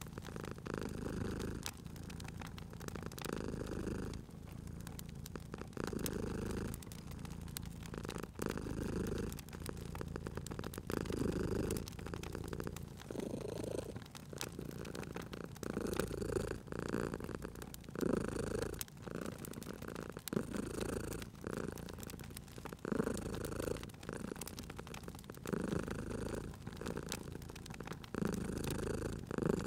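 A cat purring steadily, the purr swelling and fading with each breath about every two to three seconds. Light crackling of a wood fire sounds throughout.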